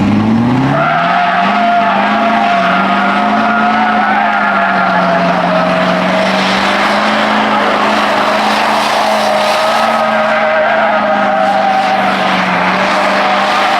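Truck burnout: the engine revs up sharply in the first second and is held at high revs while the tyres spin and squeal steadily.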